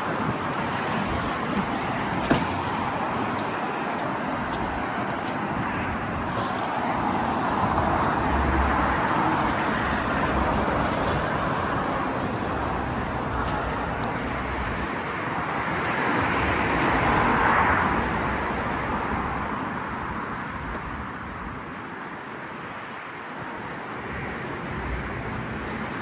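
Motor vehicle noise: a steady rush that swells twice, about a third of the way in and again past the middle, then eases off.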